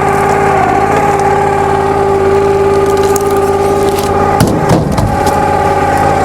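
Gas engine of a log splitter running steadily with a strong, even hum, with a brief rough crunching noise about four and a half seconds in.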